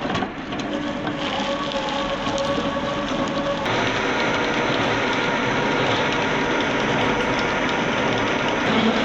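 Wood-processing machinery running: a dense, steady mechanical clatter with a held whine in the first few seconds, changing abruptly to a brighter, fuller noise about three and a half seconds in.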